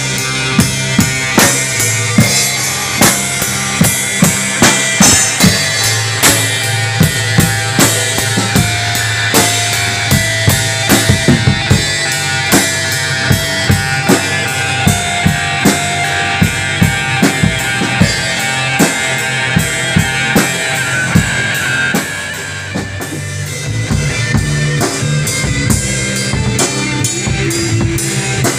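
A band playing in rehearsal, the drum kit loudest with a steady beat of kick and snare hits, about two a second, over a sustained bass line. The playing drops in loudness about two-thirds of the way through.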